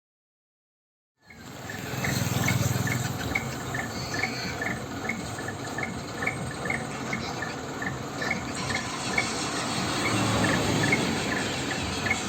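Night insects chirping in short, regular pulses, about two a second, over a steady low hum. The sound comes in about a second in, after a gap of dead silence.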